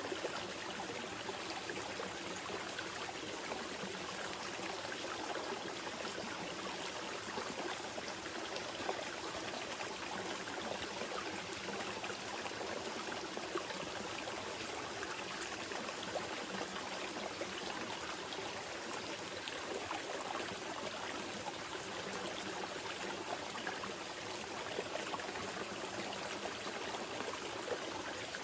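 Small mountain river flowing steadily over rocks, an even rush of water with small trickles and splashes.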